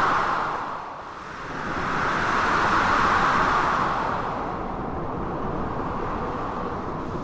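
Storm ambience: the rushing noise of blizzard wind mixed with sea waves. It swells and eases in surges, loudest about two to four seconds in.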